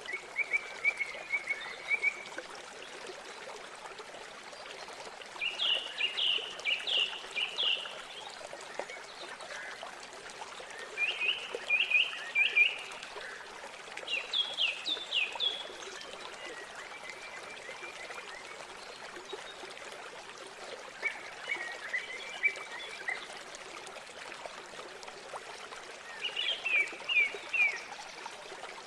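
A songbird singing short phrases of quick falling notes, repeated every few seconds, over the steady rush of flowing river water.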